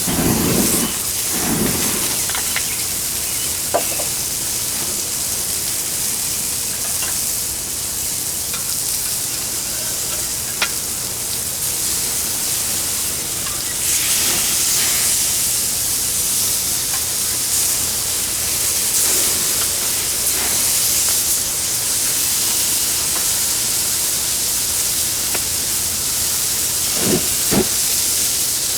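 Slider patties sizzling on a hot Weber grill, a steady hiss that grows a little louder about halfway through. A few short knocks come through near the start and twice near the end as the patties are flipped.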